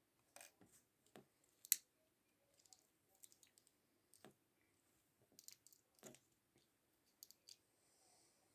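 Faint, scattered clicks and taps from handling a Zippo lighter, with one sharper click about two seconds in.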